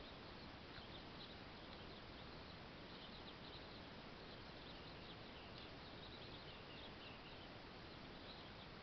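Near silence: a steady faint hiss with scattered, faint chirps of distant small birds.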